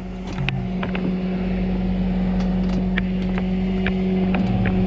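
Tow truck's engine running with a steady hum, with scattered light clicks and rattles.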